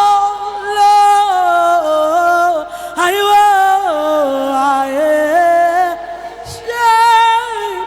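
A woman singing a worship song, drawing out long notes that slide and waver between pitches in several phrases.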